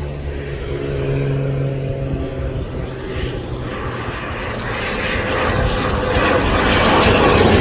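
Kawasaki T-4 jet trainer's twin turbofan engines: a rushing jet roar that grows steadily louder over the second half as the jet approaches to land.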